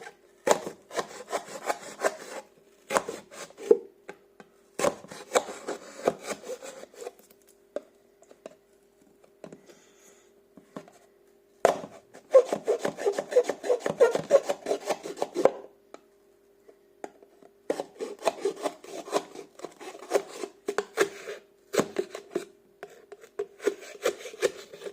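Scraping and rubbing at a plastic tub of Prime Hydration drink powder as it is handled and some powder is scooped out, in about six bursts of a second or several each with short pauses between. A faint steady hum runs underneath.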